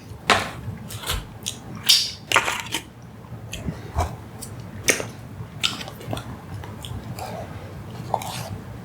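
Close-miked eating: chewing and mouth noises, with many short, irregular clicks and smacks.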